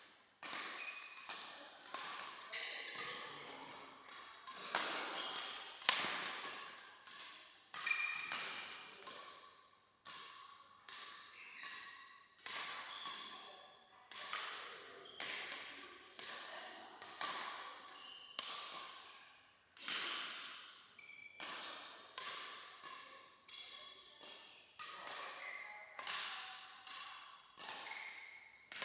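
Badminton rackets striking the shuttlecock over and over during a doubles rally: sharp hits every half second to a second, each ringing on briefly in an echoing hall.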